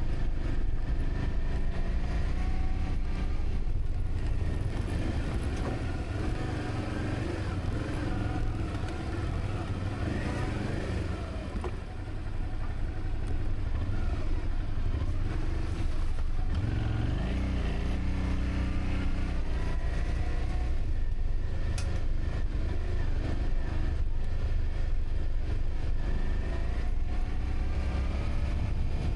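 A motor vehicle engine running under way over a constant low rumble, its pitch shifting and climbing about seventeen seconds in.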